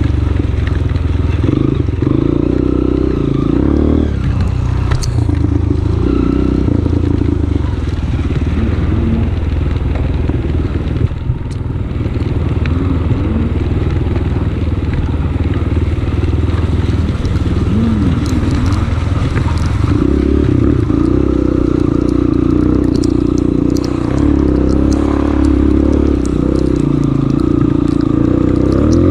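Honda CRF230F's air-cooled single-cylinder four-stroke engine running under load, its revs rising and falling as the throttle is worked, easing briefly about eleven seconds in.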